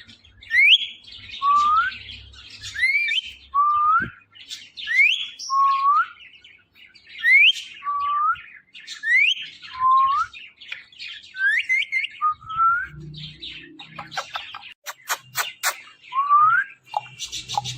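Ring-necked parrot calling: a series of short, rising, whistled chirps, about one every second or so, then a quick run of sharp clicks about three quarters of the way through.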